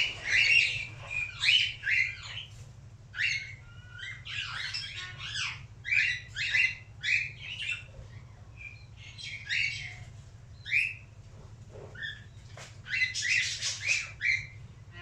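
Cockatiel chirping and squawking in a long run of short, sharp calls with a few brief pauses, bunching into a dense flurry near the end.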